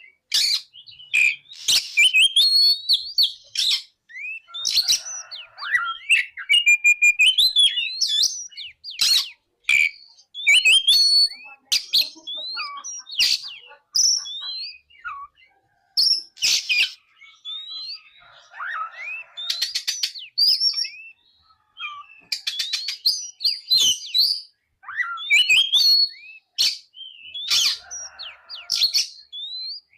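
Oriental magpie-robin (kacer) singing a varied, fast song of clear whistles, rising and falling glides and rapid rattling trills, delivered in bursts with short pauses between phrases.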